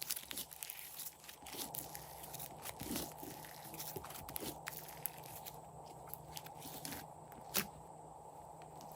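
Crunchy slime being squished and pressed by hand, giving a run of small crackles and crunches, with one sharper snap near the end.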